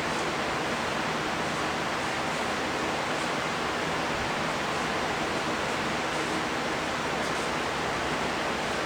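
Steady rushing hiss with a faint low hum underneath, unchanging throughout.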